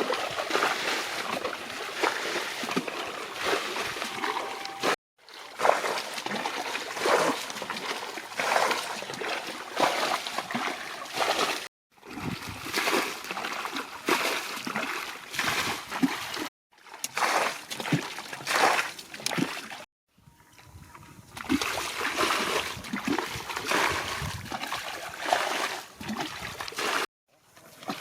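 Shallow rice-field water splashing and sloshing in repeated bursts as fish are grabbed by hand, broken by several abrupt cuts to silence.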